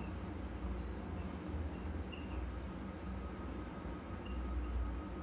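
Faint, short high chirps, a few a second at varying pitches, like small birds calling, over a steady low hum.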